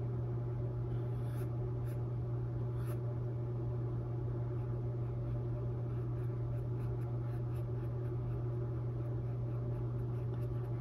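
A filbert brush stroking paint down a stretched canvas: soft scratchy rubbing strokes, a few of them a little more distinct in the first few seconds, over a steady low electrical hum.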